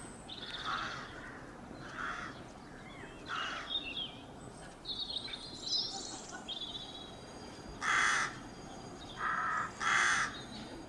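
Birds calling overhead: a series of short, harsh calls, the three loudest near the end, with lighter, higher chattering between them.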